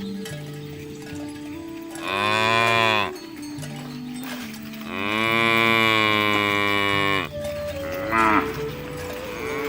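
Cows mooing: three separate calls. The first lasts about a second, the second is longer at about two seconds, and the third, near the end, is short.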